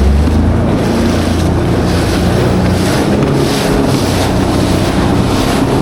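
Jet ski engine running under way, its note climbing slightly just after the start, with wind buffeting the microphone and water spray hissing.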